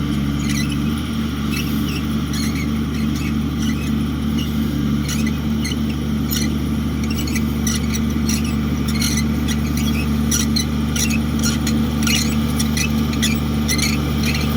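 Komatsu D58 bulldozer's diesel engine running steadily, with scattered short high squeaks and clicks over it that come more often in the second half.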